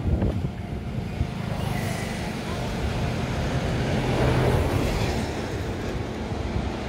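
Freight train rolling slowly through a station: a steady low rumble of wagon wheels on the rails with a low hum, swelling about four seconds in and then easing off.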